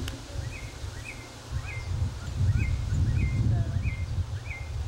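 A bird calling over and over, a short chirp about twice a second, over a low rumble that grows louder a couple of seconds in.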